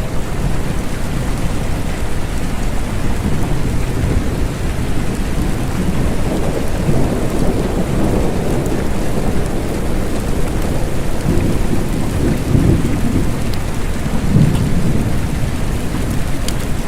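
Steady rain with low rolling thunder that swells up a few times in the second half.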